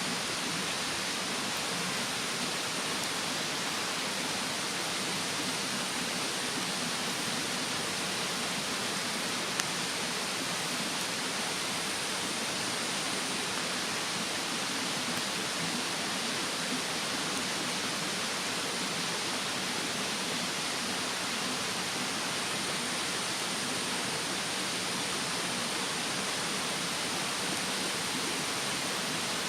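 Steady rushing of a mountain stream, even throughout, with one faint tick about ten seconds in.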